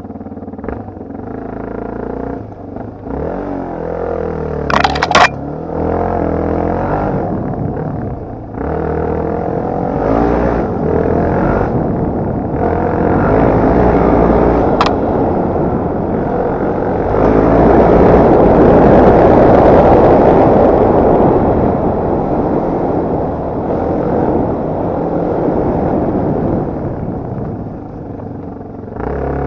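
Dirt bike engine revving up and down with the throttle, pitch rising and falling again and again as it is ridden. A sharp, loud knock comes about five seconds in, and the sound grows louder and rougher for a few seconds past the middle.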